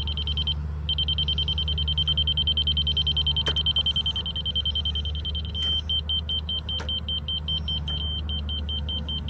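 Laser level receiver on a grade rod beeping: a nearly continuous high tone for the first half, then about five quick beeps a second over the last few seconds. The changing beep tells the operator whether the rod reads high, low or on grade. An engine idles low and steady underneath.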